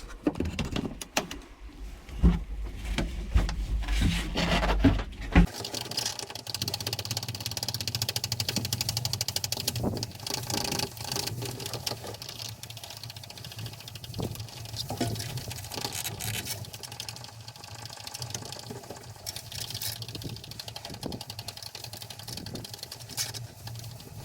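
Fishing boat's diesel engine idling with a steady hum and a regular knocking tick, running on a freshly bled fuel line after the fuel filter and water separator were changed. About five seconds in, a loud low rumble with a few knocks cuts off abruptly and the idle carries on alone.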